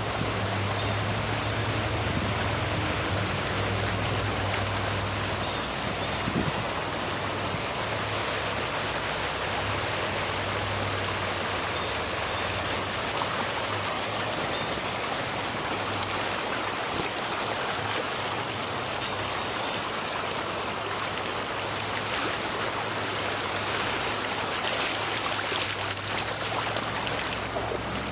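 Floodwater rushing steadily, with a low steady hum underneath through roughly the first ten seconds.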